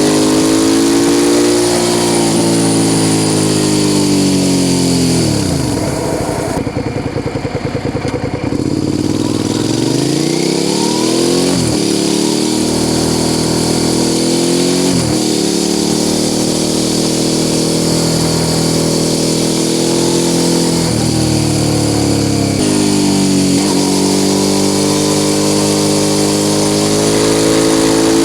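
Suzuki SV650 S's V-twin engine through an aftermarket Mivv exhaust, heard from the rider's seat. The revs fall to a low, lumpy pulse about six to eight seconds in, then climb again through several gear changes, each a quick dip in pitch.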